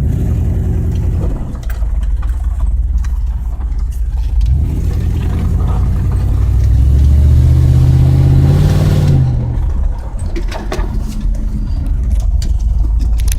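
Pickup truck's dual exhaust with catalytic converters and no mufflers, the engine pulling away and accelerating, rising in pitch for several seconds. The throttle lifts about nine seconds in and the pitch falls back to a steady cruise.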